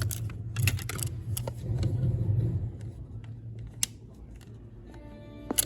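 Teddy Ruxpin's cassette mechanism and motors running, with a low hum and rapid clicking that ease off about three seconds in, then a short pitched tone and a sharp click near the end. The player is chewing the tape, pulling it up into the mechanism.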